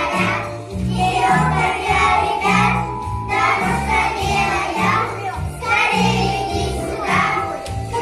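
Children's song: young voices singing over a backing track with a steady, bouncy bass beat.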